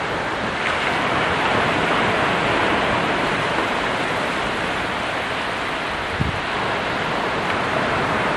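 Ocean surf: a continuous rush of waves breaking and washing ashore, swelling about a second in, with a brief low thump about six seconds in.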